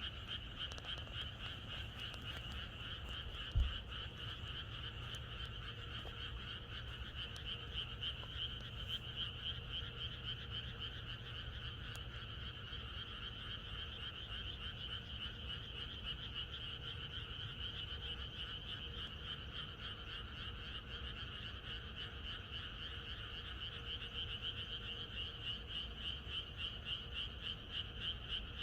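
A dense chorus of many frogs calling without a break, a steady pulsing mass of croaks. A single brief low thump sounds about three and a half seconds in.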